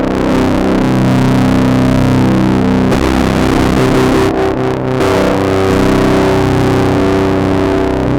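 Electric guitar played through a circuit-bent Whisper 2000 hearing-aid amplifier used as a distortion pedal: loud, fuzzy, distorted chords ringing out, changing to new chords about three and five seconds in.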